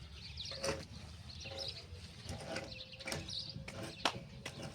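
Small birds chirping in short repeated bursts, with a few sharp knocks, the loudest about four seconds in.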